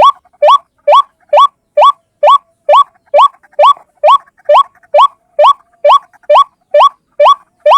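White-breasted waterhen (ruak-ruak) calling: a steady run of short, rising notes, about two a second, played as a trapper's lure call.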